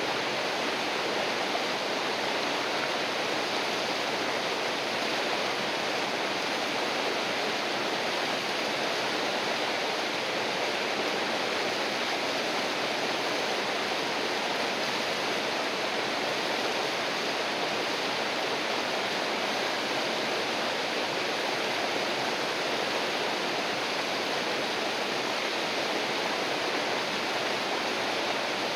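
A river rushing steadily over rocks, a continuous even wash of flowing water with no breaks or changes.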